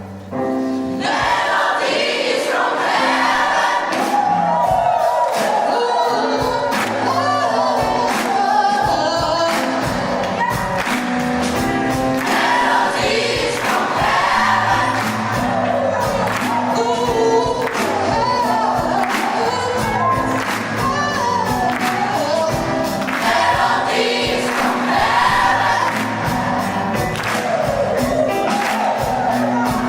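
Massed gospel choirs singing together with band accompaniment: many voices over sustained bass notes and a steady percussion beat.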